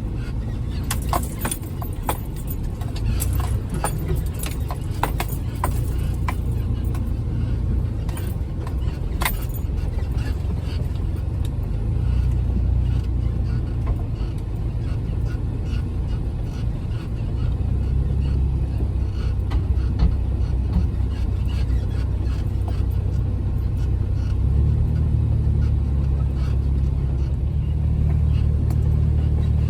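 Jeep Wrangler engine running as it drives along a snowy trail, a steady low rumble with scattered sharp clicks and knocks through the first third. About three-quarters of the way through, the engine note gets louder as it works harder.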